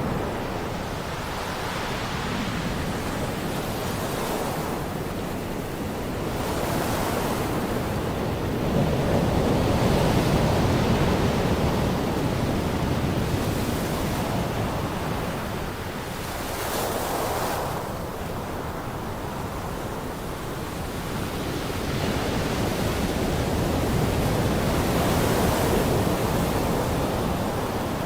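Ocean surf: waves breaking and washing up a beach, the rush of water swelling and easing every few seconds.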